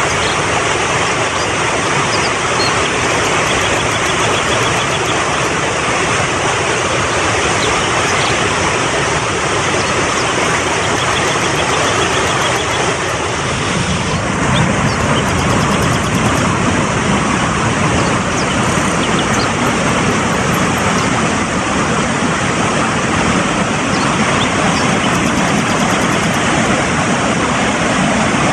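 Mountain stream rushing fast: a steady, loud hiss of flowing water. About halfway through, the rush grows deeper and fuller.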